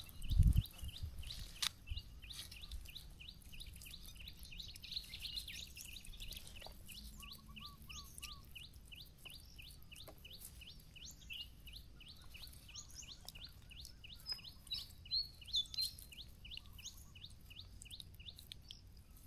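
A bird calling in a long, regular series of short high chirps, about three a second, over a low rumble. A couple of louder knocks come in the first two seconds.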